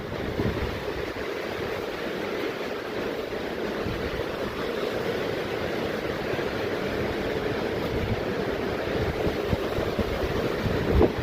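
Steady rush of flowing or falling mountain water, with occasional low wind buffets on the microphone, the strongest near the end.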